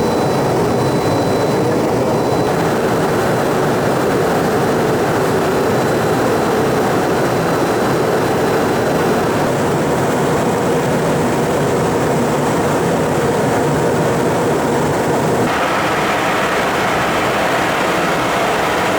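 Steady jet noise from an Embraer Phenom 300's twin turbofans, an even rush with a faint hum under it. The sound's character shifts about fifteen seconds in.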